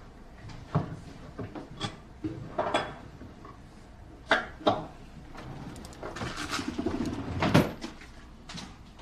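A series of light clicks and knocks from objects being handled, with a rustling stretch about six seconds in that ends in the loudest knock.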